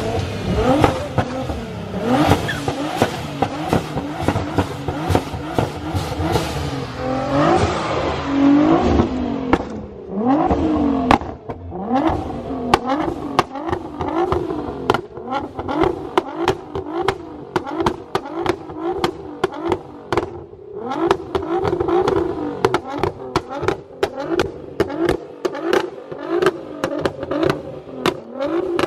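A performance car engine revved over and over, its pitch rising and falling about once a second, with a steady crackle of sharp pops over it.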